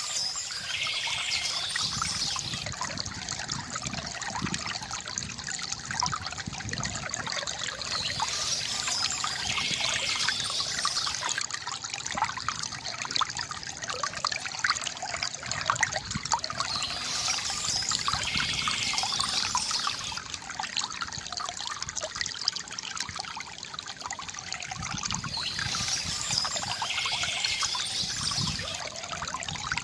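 Bamboo water fountain: water trickling and splashing in a steady gurgling flow. The sound grows brighter and hissier for a few seconds about every nine seconds.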